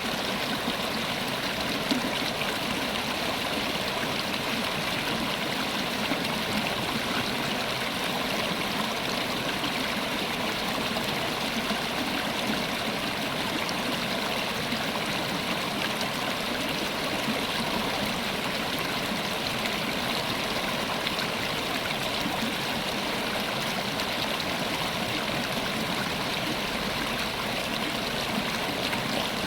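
River water running over rocks: a steady, even rush with fine gurgling and trickling.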